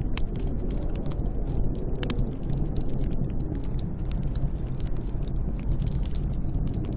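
Snowstorm wind rumbling steadily and deep, with scattered sharp crackles and clicks over it.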